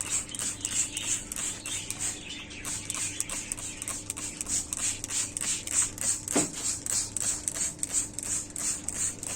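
Hand trigger spray bottle squirting water onto a cloth, a rapid run of short hisses at about three to four squirts a second.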